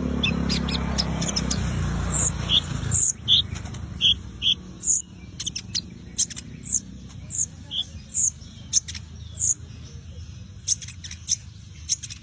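Kolibri ninja sunbird calling: a string of short, sharp, high chirps, one about every two-thirds of a second. A low rumbling noise runs under the first three seconds and then stops.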